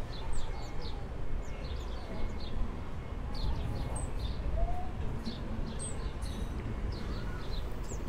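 Small birds chirping, many short high calls in quick clusters throughout, over a steady low background rumble.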